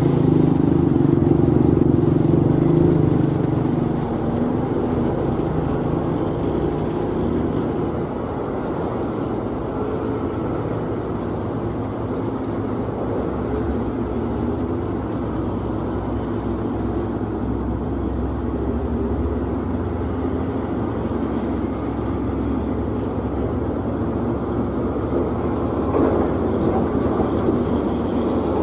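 Heavy truck engine running under load, louder for the first few seconds, then settling to a steady, slightly quieter run. A brief sharper sound comes near the end.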